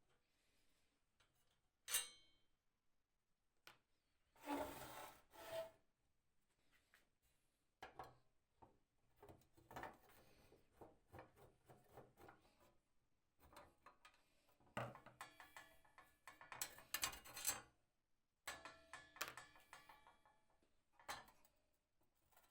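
Intermittent rubbing and scraping with sharp clinks of metal parts being handled, including a ringing clink about two seconds in and bursts of clattery rubbing near the middle and the end.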